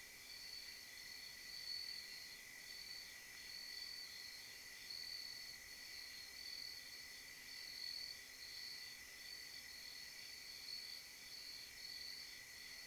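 Faint chorus of night insects, crickets, trilling steadily, with a higher layer that swells and fades about once a second.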